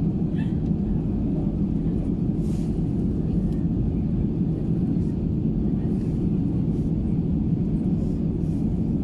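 Steady low rumble of an Airbus A320's jet engines and airflow heard inside the passenger cabin, holding an even level.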